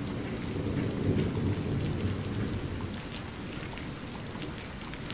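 Heavy rain falling steadily, with a deep rumble underneath that eases a little about three seconds in.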